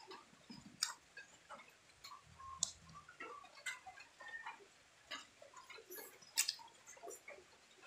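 Mouth sounds of eating juicy orange segments: irregular, sharp wet clicks and smacks of chewing and lips, faint, with a few louder ones spread through.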